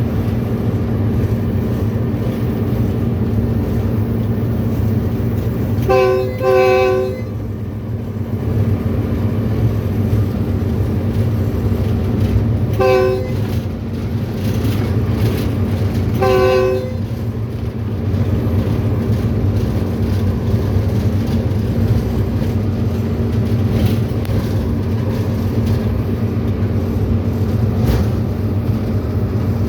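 Diesel locomotive engine running steadily at speed, heard from the driver's cab, with the locomotive's air horn sounded four short times: two quick blasts about six seconds in, then single blasts about thirteen and sixteen seconds in.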